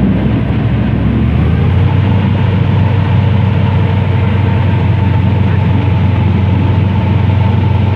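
Airboat's engine and large air propeller running loud and steady, a deep hum whose note steps up about a second and a half in as the boat picks up power.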